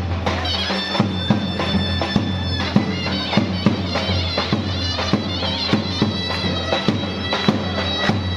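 Turkish folk wedding music. A shrill reed wind instrument plays an ornamented melody over a low drone and a steady drum beat.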